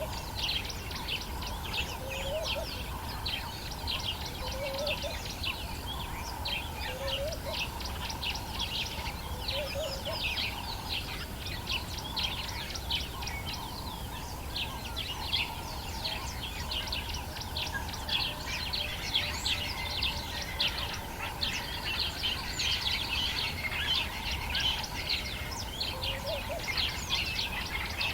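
Dawn chorus of many birds in the African bush: dense, continuous high chirping and twittering from several birds at once. Under it, a short low rising call repeats about every two seconds, fading out after the first ten seconds and returning near the end.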